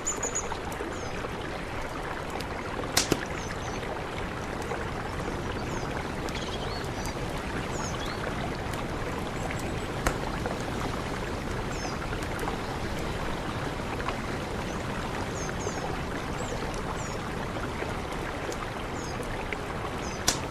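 Mountain river rushing steadily. Faint short high chirps come now and then, and there are a few sharp clicks.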